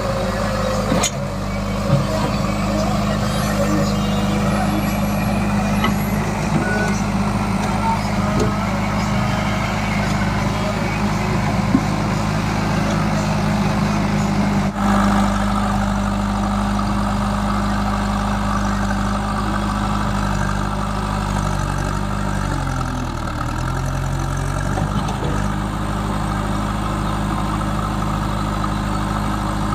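Heavy diesel engine running steadily under load, its pitch dropping and then recovering about two-thirds of the way through.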